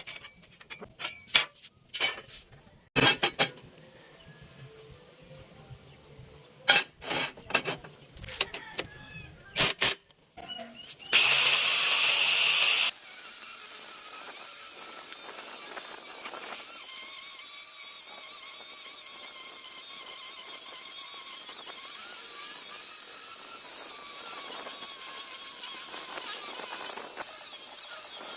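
Metal parts clicking and knocking, then a loud two-second burst of noise that starts and stops suddenly, followed by an angle grinder motor running steadily with a wavering whine.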